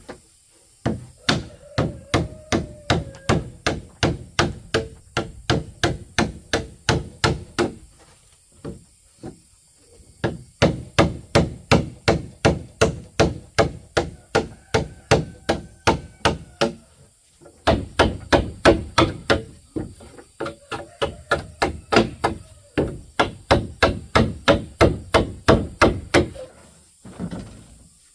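Repeated blows of a hand tool on bamboo, a steady run of sharp strikes about three a second, stopping briefly twice and starting again.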